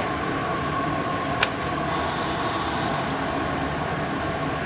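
Steady running noise of heavy workshop machinery, with a faint steady tone, and a single sharp click about a second and a half in.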